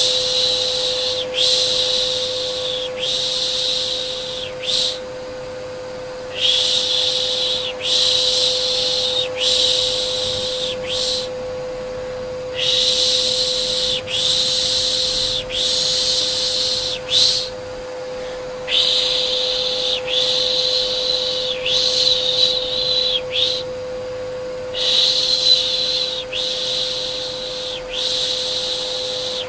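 Repeated 'shh' shushing, each hiss about a second and a half long, in runs of three or four with short pauses, over a steady vacuum-cleaner hum: the pış pış and vacuum noise used to soothe a baby to sleep.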